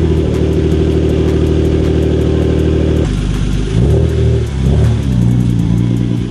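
Hyundai Genesis Coupe's 3.8-litre V6 heard at the exhaust, running at a steady idle just after starting. About three seconds in the note drops, and then the revs rise and fall a couple of times as the car pulls away.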